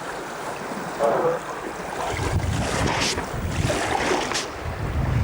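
River water rushing and splashing around a raft. Wind buffets the microphone, heavier from about two seconds in.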